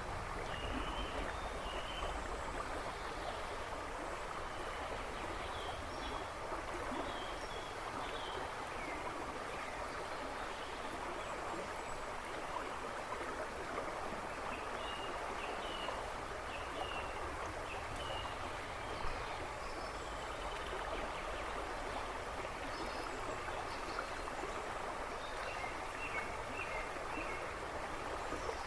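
Steady rushing and babbling of a flowing river, with small birds chirping in the background now and then.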